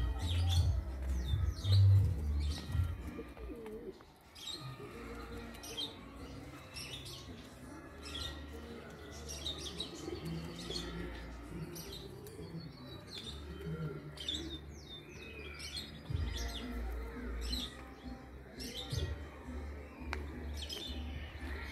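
Small birds chirping in short, repeated calls, over a low rumble that is loudest in the first few seconds.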